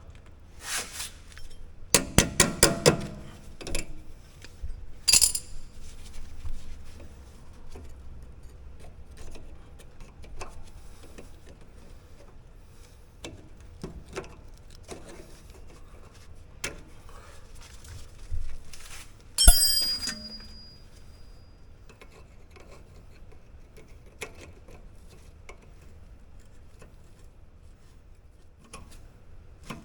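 Metal tools clinking and tapping on a rear brake caliper's guide pins and retaining springs while the pins are nudged and pried out with pliers. A quick run of taps comes about two seconds in, then scattered clicks, and one loud sharp metallic clink with a brief ring about two-thirds of the way through.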